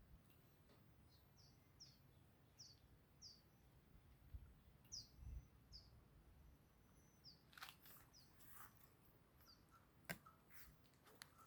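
Near silence with faint, short high chirps of a small bird repeating every half second or so, and a few light clicks about two-thirds of the way in.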